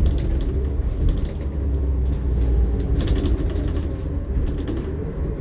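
A New Flyer XN60 articulated bus's Cummins-Westport ISL-G natural-gas engine and Allison B500R automatic transmission running while the bus is driven, a steady low rumble with a few rattles about three seconds in. Near the end a whine rises and then falls.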